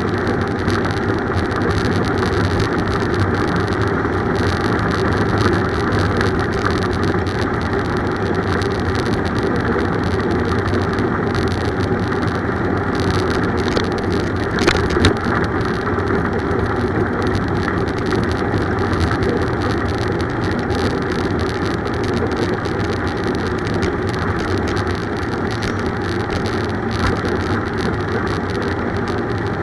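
Steady road noise from riding a bicycle, with a couple of short clicks about halfway through.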